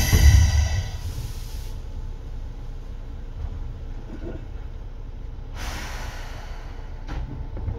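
Interior running sound of a Seibu 2000-series electric train (set 2057F): loud wheel rumble and motor whine that die away in the first second or so as the train slows to a stop, then a low steady rumble. About six seconds in, a hiss of compressed air lasts about a second, followed by a short click.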